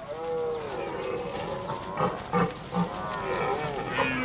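Red deer stag roaring in the rut: a drawn-out bellow at the start, then a run of shorter roars and clipped grunts, with another long roar beginning near the end.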